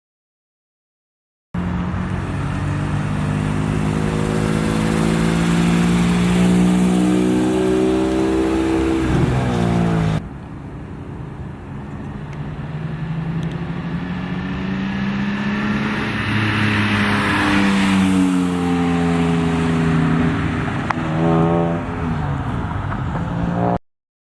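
2004 BMW E46 M3's S54 straight-six through a Megan Racing axle-back exhaust, pulled hard under acceleration: the engine note climbs steadily in pitch, drops back about nine seconds in, and after an abrupt cut a second pull climbs again and falls away.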